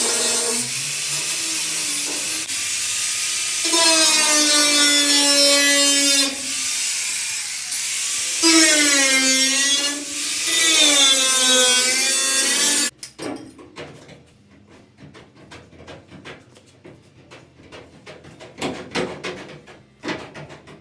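A power cutting tool cutting through the rusted sheet metal of a pickup's wheel arch, its pitch sagging and recovering as it bites under load. It stops suddenly about thirteen seconds in, followed by light scattered taps and clicks of metal being handled.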